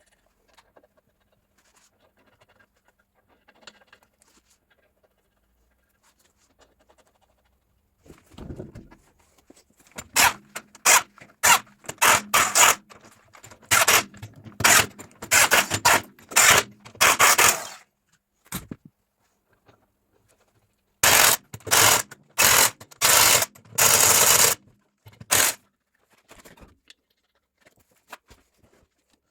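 Impact wrench on the tractor's rear wheel nuts: two runs of short rattling bursts, each ending in a longer burst, while the rear wheels are being swapped from side to side.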